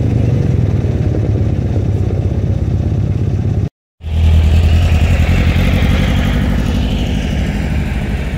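A classic Fiat 500's small engine running low and steady as the car rolls slowly past close by. After a brief dropout just before halfway, an air-cooled Volkswagen Beetle engine takes over, with a steady low rumble as it drives by.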